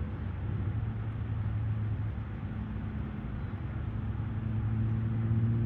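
A steady low engine hum with a rushing noise over it, swelling slightly louder near the end.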